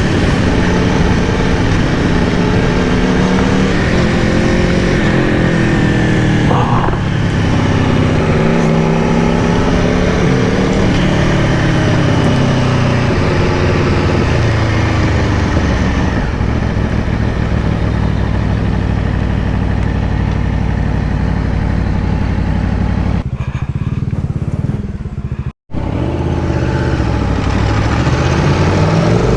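2022 Aprilia Tuono V4 Factory's V4 engine heard from the saddle at riding speed, with air rushing past. The engine note falls for a couple of seconds, holds steady, then climbs again as the bike speeds up. The sound cuts out for an instant near the end.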